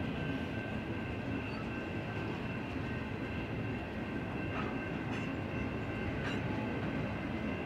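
Double-stack intermodal container well cars rolling past in a steady, continuous rumble, with a faint steady high whine over it. A few short metallic clicks come around the middle.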